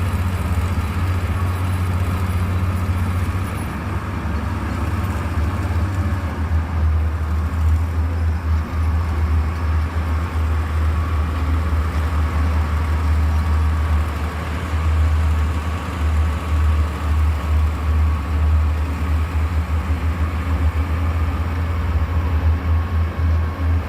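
Heavy construction machine's diesel engine running, a deep steady rumble that flutters in loudness through the second half.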